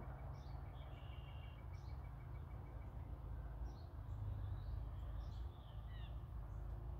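Small birds chirping outdoors. One gives a fast, even trill for about the first three seconds, and short high chirps come through the rest, over a low, steady background rumble.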